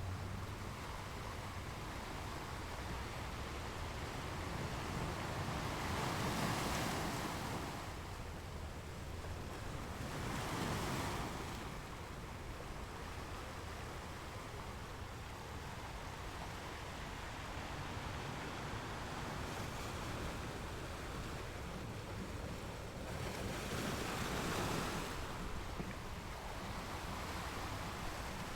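Ocean waves washing onto a shore, a steady rush of surf with swells breaking about three times.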